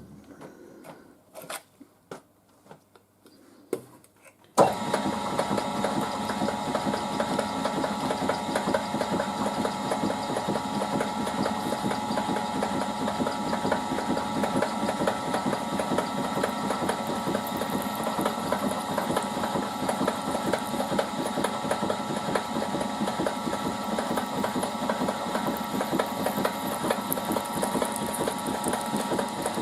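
A few light clicks and knocks, then about four and a half seconds in a machine tool's motor starts and runs steadily at its slowest speed. It is turning a reamer in the drill chuck to size a ½-inch hole in aluminium.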